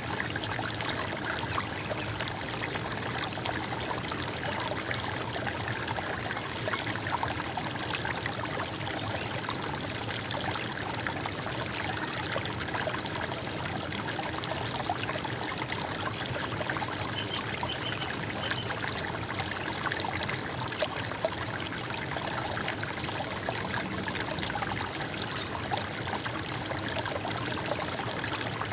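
Running water, a steady trickling, gurgling flow.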